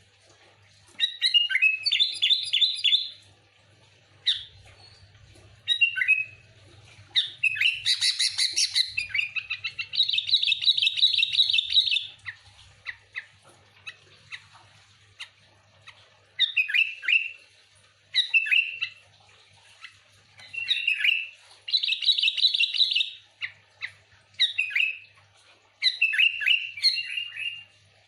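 Sooty-headed bulbul (kutilang) calling noisily: repeated bursts of quick, chattering notes, each a second or two long with short pauses between them, and a longer rapid run of notes about eight to twelve seconds in. This is the rowdy kutilang call used to lure other bulbuls.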